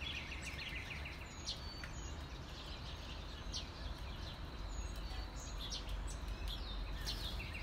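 Several small birds chirping and singing, with a few quick trills, over a steady low rumble of background noise.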